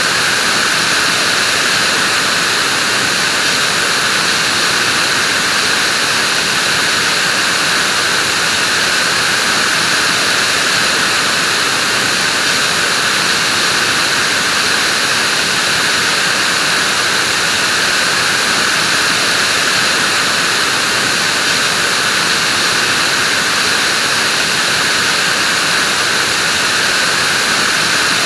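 Vacuum cleaner running steadily, a constant even whooshing hiss with no change in pitch or level.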